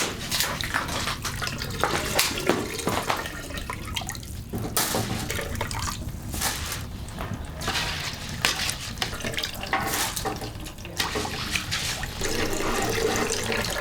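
Water running and splashing, coming in uneven surges.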